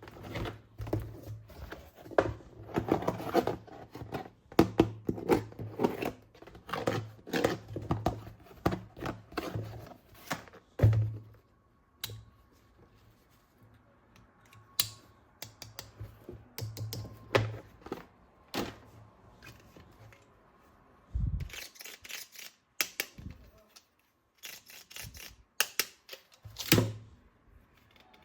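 Plastic toy weapon parts being handled and fitted together: a busy run of clicks, knocks and rattles, thicker in the first half and then more scattered.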